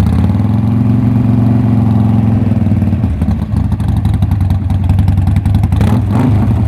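Harley-Davidson Sportster Forty-Eight's 1200 cc air-cooled V-twin idling steadily just after being started, loud and deep.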